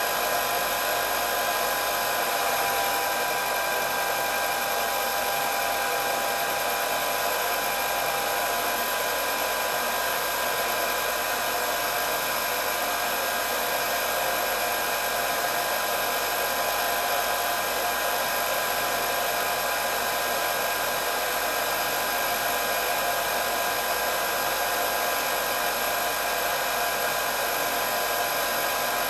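Hair dryer running steadily: a constant rush of blown air with a whine from the motor and fan.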